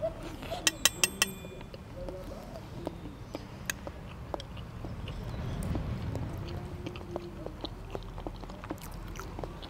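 Close-up chewing of food, with a quick run of about five sharp clicks, forks against ceramic plates, about a second in.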